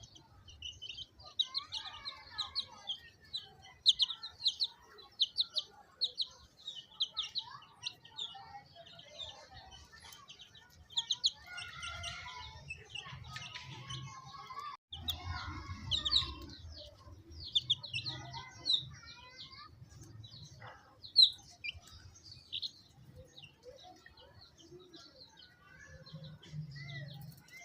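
Baby chicks peeping: many short, high cheeps in quick succession, thinning out towards the end, over a low rumble.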